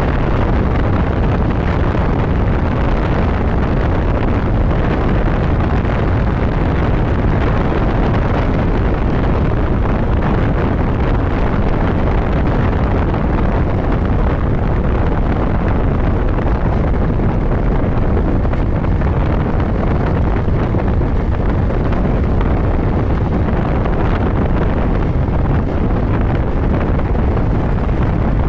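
Steady wind rush buffeting the microphone of a motorcycle riding at road speed, with the motorcycle's running and road noise blended underneath.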